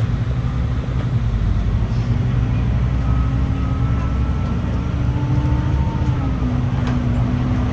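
Scania OmniExpress city bus under way, its diesel engine running steadily with a low rumble and a faint whine that shifts slightly in pitch about six seconds in.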